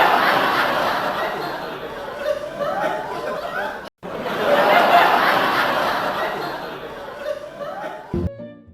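A group of people laughing, the same few seconds of laughter heard twice with a brief break between them.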